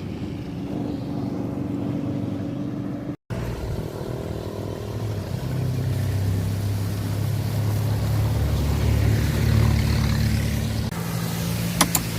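A motor vehicle engine running steadily. A brief dropout about three seconds in; the engine then grows louder and eases off near the end.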